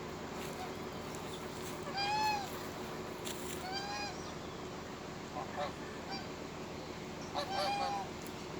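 Swans honking: several short calls a few seconds apart, with a quick cluster of calls near the end, over a faint steady hum.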